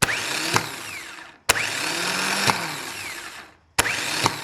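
Starter motor from a Ford 300 straight-six F-150, powered on the bench with jumper cables, spins up three times. Each run begins with a sharp click as the cable makes contact, then a whirring whine that winds down. It spins freely and works fine, so the no-start fault most likely lies in the fender-mounted solenoid.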